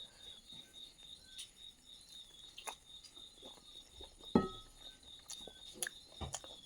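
Crickets chirping in a steady, even pulse, with a few scattered clicks and a sharper knock about four seconds in.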